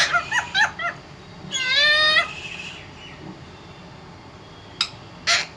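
Parrot calling: a few short chirps, then a longer wavering call about two seconds in, and two short harsh screeches near the end.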